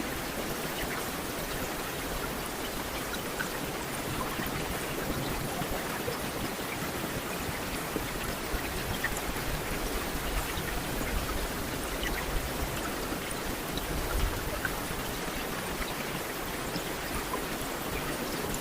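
Steady rain: an even hiss of rainfall with scattered individual drops splashing through it.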